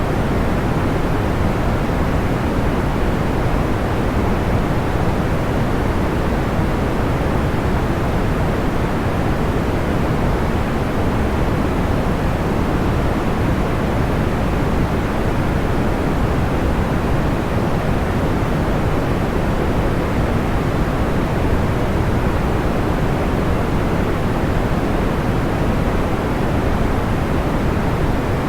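Steady pink noise: an even, deep rushing hiss with no crackles, pops or changes.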